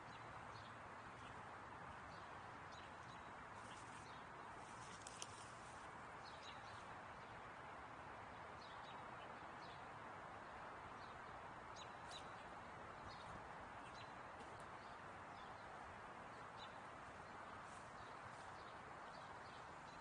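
Faint scattered bird chirps, short and irregular, over a steady background hiss.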